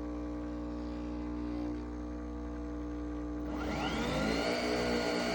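Nespresso Vertuo Pop+ coffee machine running with a steady hum. About three and a half seconds in, its motor spins the capsule up with a rising whine that settles at a steady higher pitch.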